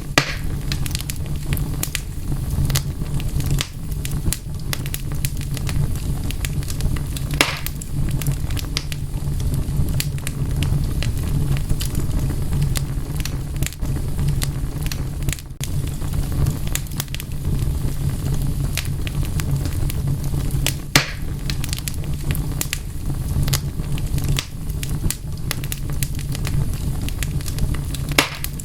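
Wood fire crackling steadily, with a low rumble of burning under frequent small snaps and a few louder pops.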